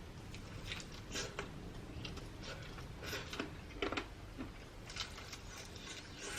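A person chewing and biting food close to the microphone: irregular wet, crackly mouth sounds, with a few louder bites about a second, three seconds and four seconds in.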